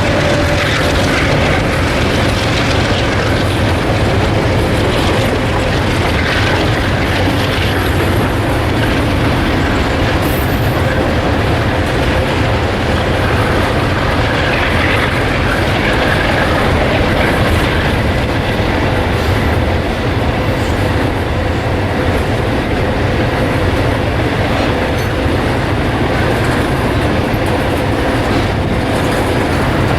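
A freight train rolling past on the rails, its wagons making loud, steady wheel-and-rail noise.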